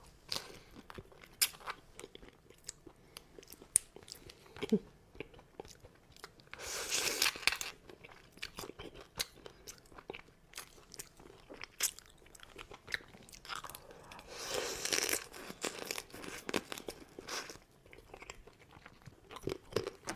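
A person eating crab: small cracks and crunches of shell with chewing. The clicks come scattered throughout, with two longer, noisier stretches about seven and fifteen seconds in.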